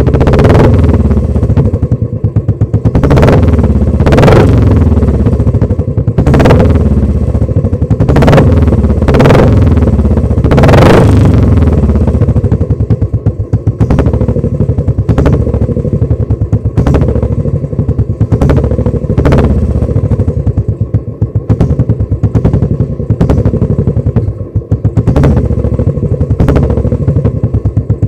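Royal Enfield Classic 350 single-cylinder engine idling, blipped by the throttle again and again: several strong revs in the first eleven seconds or so, then lighter, quicker blips.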